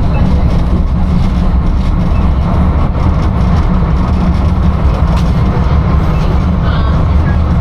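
Inekon streetcar running along its track, heard from inside the car as a steady low rumble, with faint voices near the end.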